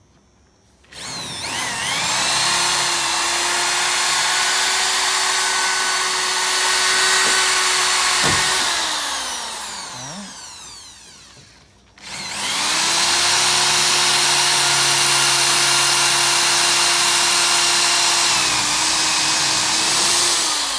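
Electric drill run in two long bursts of several seconds each, drilling out fixings: the motor whines up to a steady pitch, holds, then winds down, the first run starting about a second in and the second about twelve seconds in, ending just before the end.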